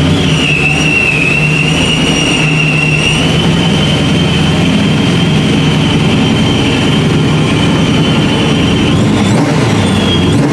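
Supercharged 1969 Camaro engine running steadily, with the supercharger's high whine holding over the engine note and wavering a little in pitch.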